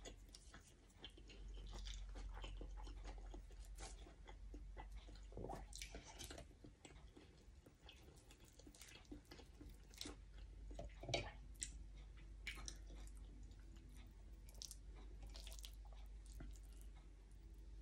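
Close-miked chewing and wet mouth clicks of someone eating sticky rice and grilled beef liver, soft and intermittent, with a few sharper smacks about halfway through.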